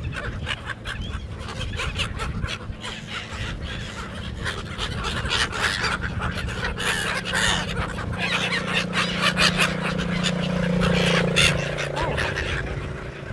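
A flock of seagulls calling, with many short overlapping squawks. A steady low drone runs beneath them for several seconds in the middle and fades out near the end.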